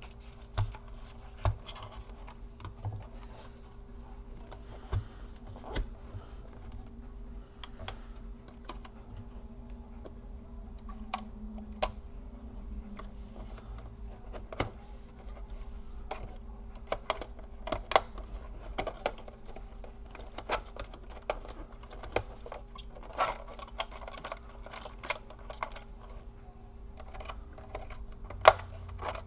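Irregular clicks and taps of plastic and small metal parts being handled while a laptop is taken apart by hand, coming more often in the second half. A faint steady hum runs underneath.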